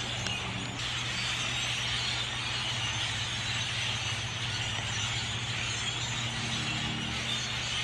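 A large flock of blackbirds calling all at once: a dense, unbroken chatter of many birds, with a steady low hum underneath.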